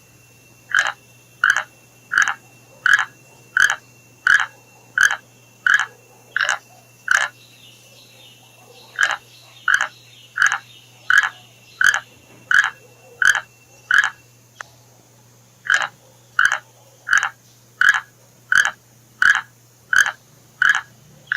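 An animal giving a short, sharp call over and over at an even pace, about three calls every two seconds, with two brief pauses.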